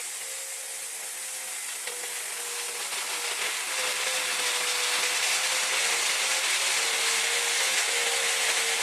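Power tool running steadily: a constant motor whine under a loud hiss, growing a little louder over the first few seconds.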